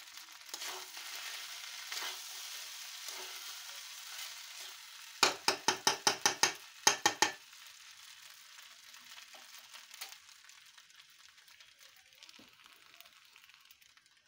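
Panta rice frying in a pan, sizzling, with a quick run of about ten sharp knocks a little after five seconds in. The sizzle fades toward the end.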